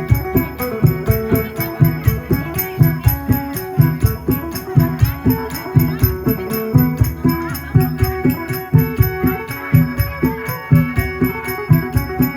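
Isan folk music: a phin, the Thai plucked lute, plays a quick repeating melody over a steady, fast beat of low drum strokes and jingling percussion.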